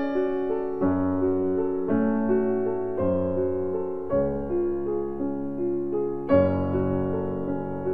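Background piano music: a melody of single notes over sustained chords.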